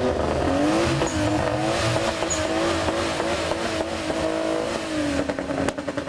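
A performance car's engine revved up and held at high revs for several seconds, the note dropping back near the end, with a few sharp cracks as it falls.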